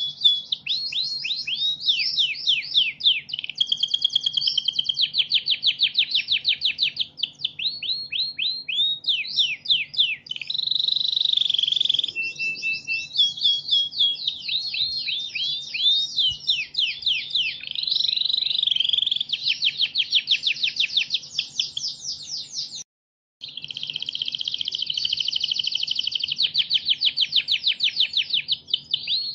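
Domestic canary singing a long, continuous song of fast trills and rapidly repeated high notes, with one sudden half-second break to silence about two-thirds of the way through.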